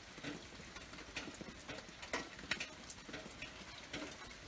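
Light steady drizzle: a faint hiss of rain with irregular drops tapping, a few a second.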